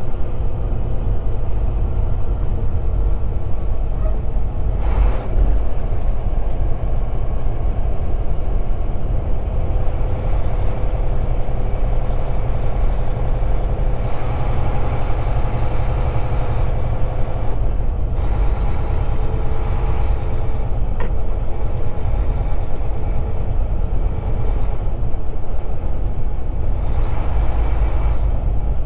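Volvo 780 semi truck's diesel engine and road noise heard from inside the cab, a steady low drone, with a few brief swells of hiss.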